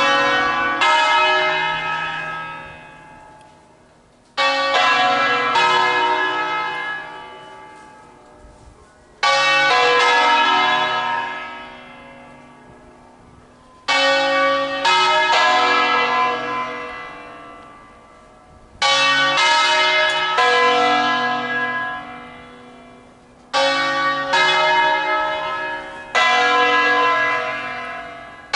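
Church bells tolling: the three largest bells of a nine-bell 1953 Angelo Ottolina peal tuned in B, rung for an office toll. The bells are struck in quick succession in groups of about three strokes, one group roughly every five seconds, and each group rings out and fades before the next.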